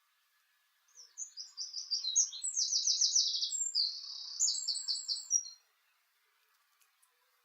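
A small songbird singing one loud, high song of about four and a half seconds, made of fast repeated notes and trills.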